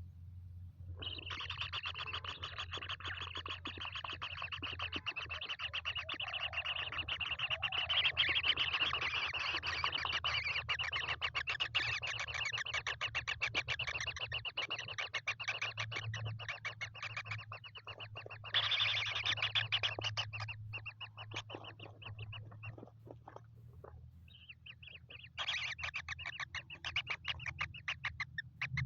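Baby kingfishers giving rapid, raspy chattering calls in long runs. The calls thin out about two-thirds of the way through and start up again strongly near the end. A steady low hum sits underneath.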